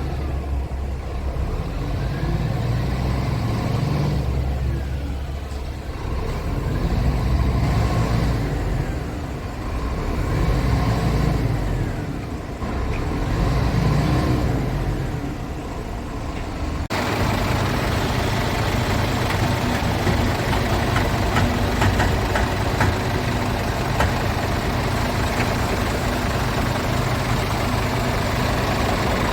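Scania G500 truck's 13-litre straight-six diesel engine running and being revved several times, the pitch rising and falling. About halfway through the sound changes suddenly to a steadier, noisier engine run.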